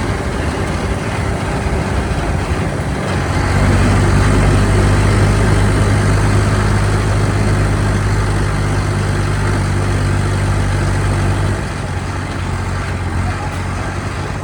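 Diesel tractor engine running steadily, a low hum over a rushing noise. It gets louder about three and a half seconds in and eases back a few seconds before the end.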